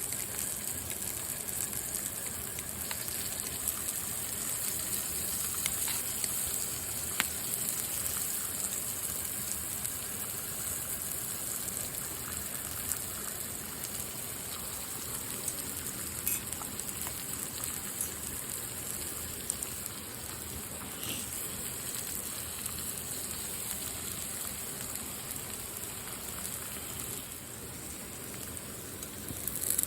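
Steady rain falling, with a few sharp drip-like ticks scattered through it.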